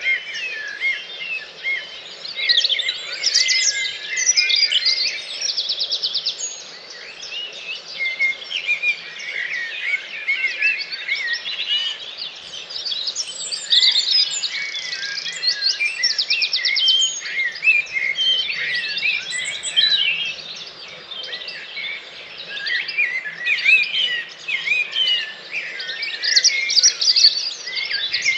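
Dawn chorus: many birds singing at once, a dense, unbroken tangle of overlapping songs and calls, with fast trills now and then.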